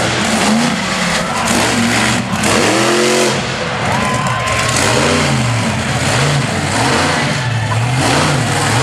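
Monster truck engine being revved hard, its pitch climbing and dropping repeatedly, several times in quick succession.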